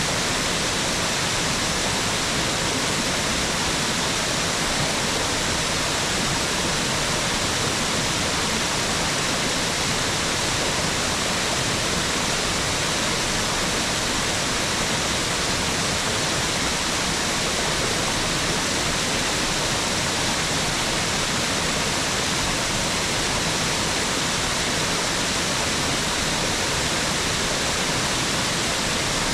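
Mountain waterfall rushing steadily, a dense, even hiss of falling water that neither rises nor falls.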